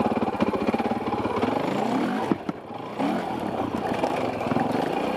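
Dirt bike engine running with steady pulsing revs. About two and a half seconds in there is a sharp knock and the engine sound drops away for about half a second, then picks back up.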